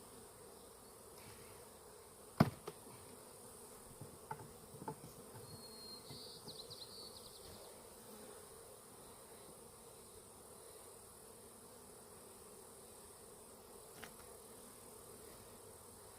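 Honeybees buzzing as a steady hum, with one sharp knock about two and a half seconds in and a few lighter knocks a couple of seconds later.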